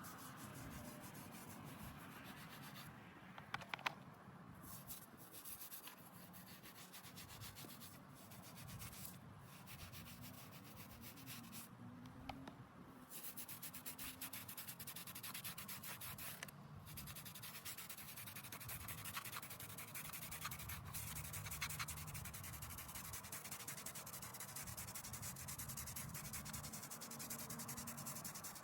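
Quick, repeated rubbing strokes of hand work against a stone headstone's surface, a few sharp clicks about four seconds in.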